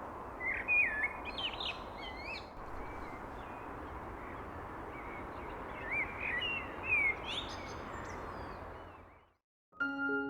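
Birds chirping and whistling in short gliding calls over a steady outdoor hiss, in two bursts: one near the start and another about six seconds in. The ambience fades out near the end and piano music starts just before the end.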